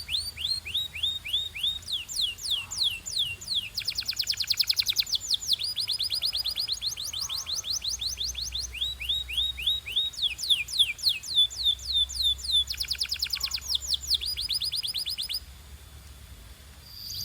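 Domestic canary singing a fast song of rolled trills: tours of rapidly repeated downward-sweeping notes that switch in speed and pitch every second or two. The song stops about 15 seconds in.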